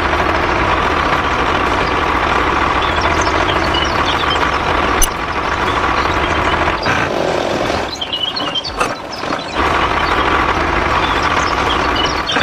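Steady truck engine sound with a low hum, as made by a miniature model truck, dipping briefly about two-thirds of the way through.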